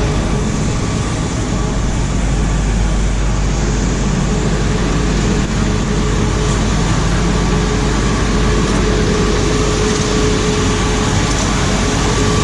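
Machinery running steadily: a loud low drone with a steady whine over it, unchanging throughout.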